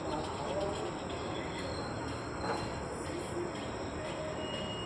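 Freight train of goods wagons rolling slowly past the platform: a steady low rumble, with high insect-like chirring and faint distant voices over it.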